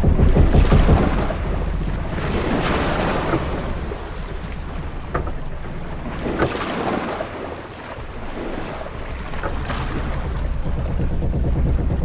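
Ship-at-sea ambience: waves washing against the hull in surges every few seconds over a steady low rumble of wind and sea, with a few small knocks.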